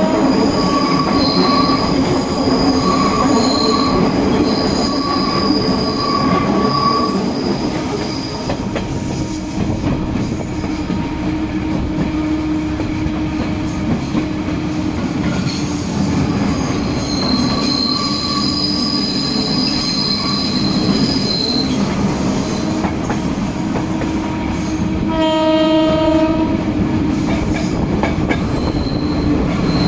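Renfe series 442 narrow-gauge electric train running, its wheels squealing on the rails in thin high tones that come and go. A short horn blast sounds near the end.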